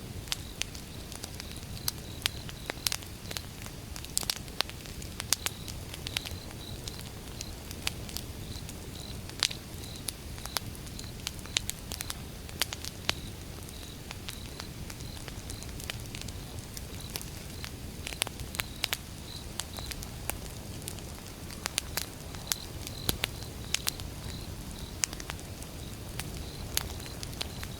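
Campfire of burning wood logs: a steady low rumble of the flames with frequent sharp, irregular crackles and pops. A faint high chirp repeats evenly, about three times a second, in the background.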